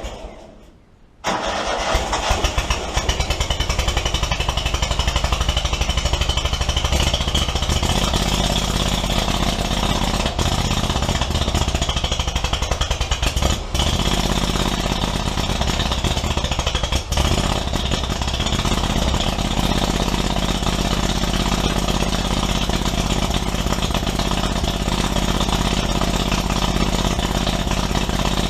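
Kohler Command 25 V-twin engine on a zero-turn mower. It dies away right at the start, is running again about a second in, and then runs steadily.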